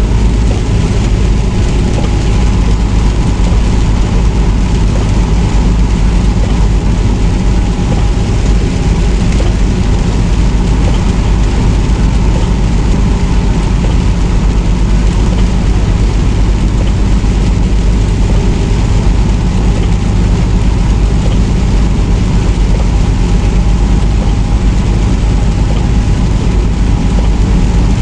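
Semi truck on the road, heard from inside the cab: a steady, loud drone of engine and road noise that does not change.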